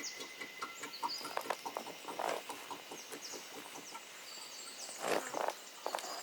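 Scattered light knocks, clicks and rustling, loudest in two bursts about two seconds in and again just after five seconds, with a few faint high bird chirps.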